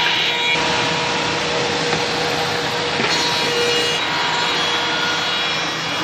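Single-head CNC tenoning machine cutting wood: its spindle cutter milling a tenon gives a steady, dense cutting noise with faint steady tones underneath.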